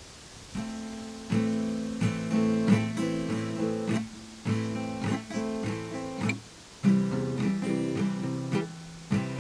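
Background music of acoustic guitar strumming chords, coming in about half a second in after a quiet start.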